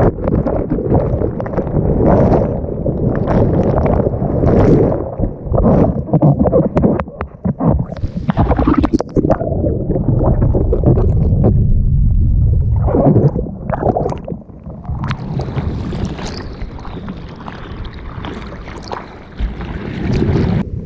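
Water rushing and splashing around a bodyboard-mounted action camera, with wind buffeting the microphone. It is loud and surging unevenly, then settles into a thinner, steadier hiss in the last third.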